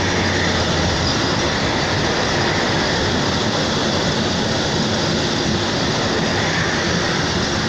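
Passenger train running at speed, heard from on board: a steady, even noise of wheels on rails and the moving carriage.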